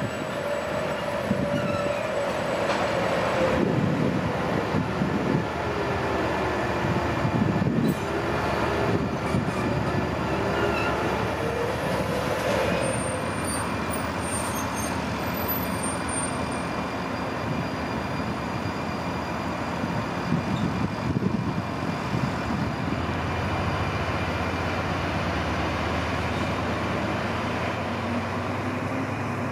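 Passenger coaches being moved slowly by a diesel shunting locomotive. A whine falls and rises again over the first dozen seconds, with clattering of wheels over rail joints and points, then a steady rumble.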